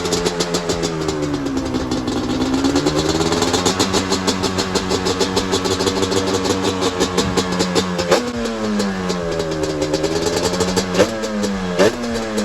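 Motorcycle engine being ridden, its revs rising and falling with the throttle. It shifts gear about eight seconds in and twice more near the end, each shift a quick drop in pitch before it climbs again.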